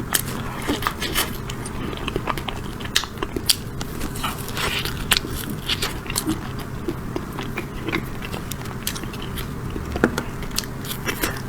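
Close-up crunching and chewing of hard chocolate cake with hazelnut pieces: many irregular sharp crunches.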